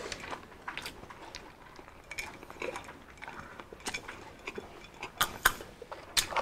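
Close-miked eating: crunching and chewing of crispy fried food eaten by hand, with scattered sharp clicks and crackles, a few louder ones in the second half.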